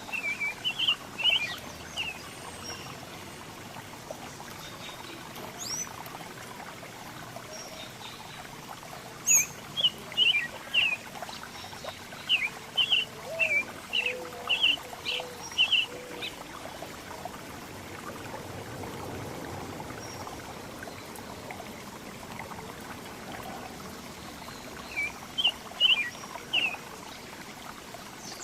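Small songbirds calling in quick runs of short, sharp chirps, several clusters spread through the stretch, over a steady hiss.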